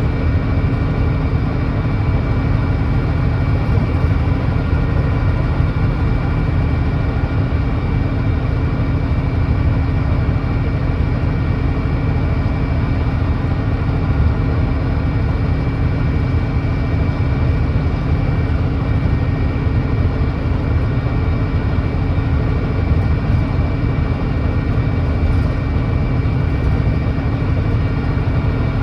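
Volvo B9TL double-decker bus's Volvo D9B 9.3-litre diesel engine running at a steady speed, a low drone with a steady high whine over it, on a bus with an exhaust leak.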